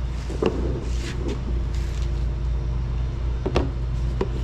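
Steady low mechanical hum with a couple of faint knocks, one about half a second in and a sharper click about three and a half seconds in.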